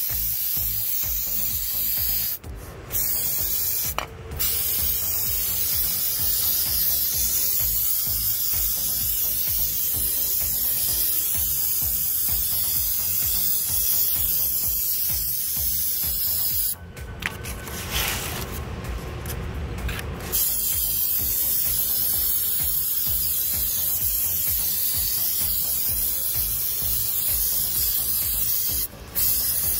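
Aerosol can of contact cleaner spraying in long, steady hissing bursts, degreasing an oil-soaked hydraulic area so the leak can be traced. The spray stops briefly twice a few seconds in and once near the end, and weakens for a few seconds just past halfway.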